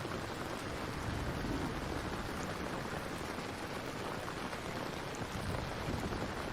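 Steady rain ambience: an even, unbroken hiss of falling rain with a deep low rumble in it.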